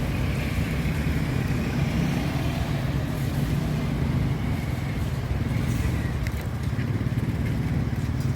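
KiHa 183 diesel railcar running at a steady pace, a constant low engine drone with a faint high whine that slowly falls in pitch.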